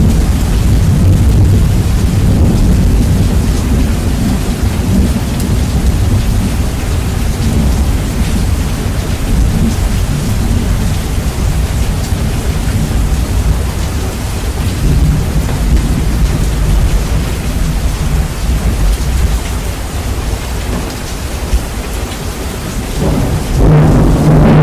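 Heavy rain with rolling thunder, bass-boosted so that the low rumble dominates and the whole track is very loud. A louder surge of thunder comes in about a second and a half before the end.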